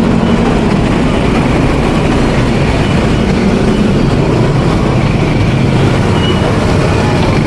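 Street traffic: motor vehicle engines running close by, a loud steady rumble with a low engine hum.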